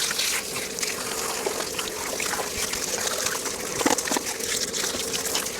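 Shower water running steadily, spraying onto a dog's coat during a bath, with a faint steady hum underneath.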